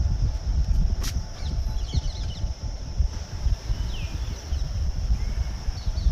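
Many birds calling with short, scattered chirps and quick sliding notes, over a loud, rough low rumble.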